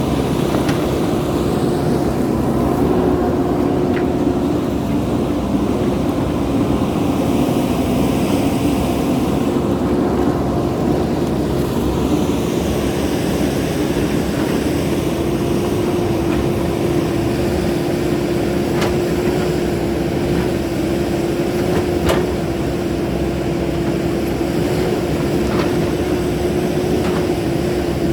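JCB backhoe loader's engine running steadily while it works, with a steady whine over the rumble and a few sharp knocks.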